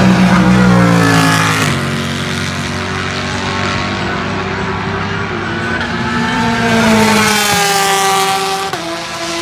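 Race cars going by at speed. One car's engine note falls in pitch as it passes in the first two seconds. Another approaches with a rising note, drops in pitch as it passes around seven to eight seconds, and near the end its pitch steps down abruptly, as at a gear change, then climbs again.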